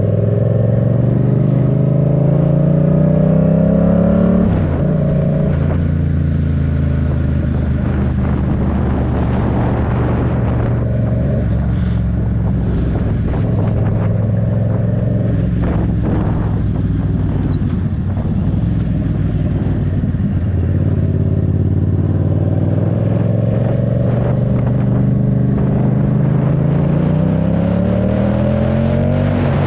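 Yamaha MT-07's parallel-twin engine under way: the pitch climbs as it accelerates, drops suddenly about four seconds in, then holds steady while cruising, and climbs again near the end before dropping once more.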